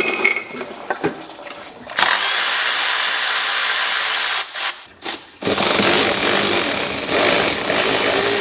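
A handheld power tool runs in two long trigger pulls, the first starting about two seconds in and the second about five and a half seconds in, with a short broken pause between. It is working a fastener loose, and a couple of metallic clicks come just before.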